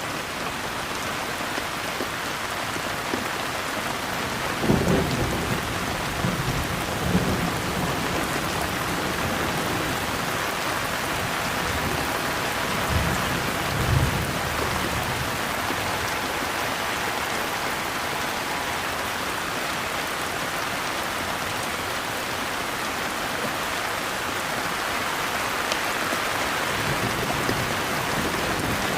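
Steady heavy rain falling, with low rolls of thunder rumbling about five seconds in and again around thirteen to fourteen seconds.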